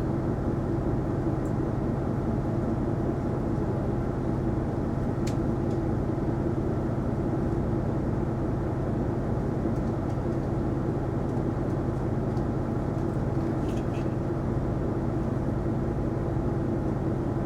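Isuzu Erga non-step city bus heard from inside the cabin: a steady, unchanging drone of engine and running noise, with a couple of faint clicks.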